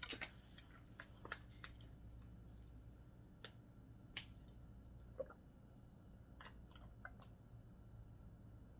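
Faint, scattered small clicks and snaps of someone eating seafood by hand, over a steady low hum.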